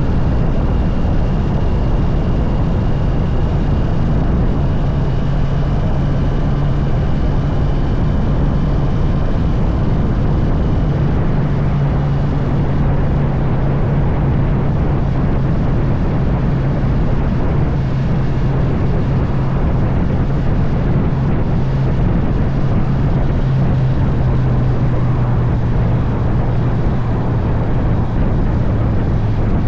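Honda CB650R's inline-four engine running at a steady cruise under heavy wind rush, its hum dropping slightly in pitch near the end as the throttle eases.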